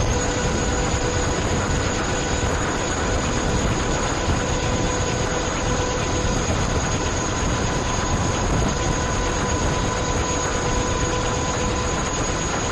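Steady aircraft engine noise: an even rush with faint steady whines on top.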